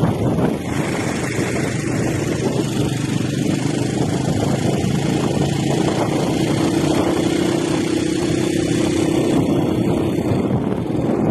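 A motor engine running steadily, its tone strengthening and rising slightly past the middle, over wind noise on the microphone.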